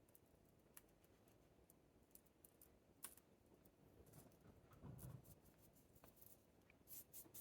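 Faint, scattered clicks and light rustling from handling succulents, soil and pots while assembling a succulent arrangement, with a soft low thump about five seconds in.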